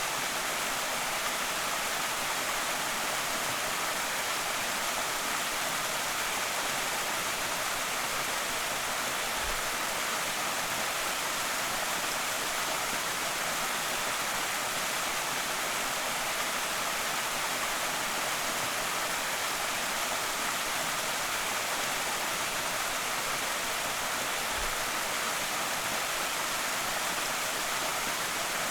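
Creek waterfall rushing steadily: an even hiss of falling and splashing water with no change in level.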